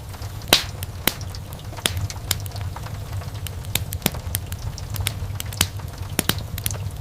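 Wood fire crackling: irregular sharp pops and snaps from the burning logs, the loudest about half a second in, over a low steady rumble of the flames.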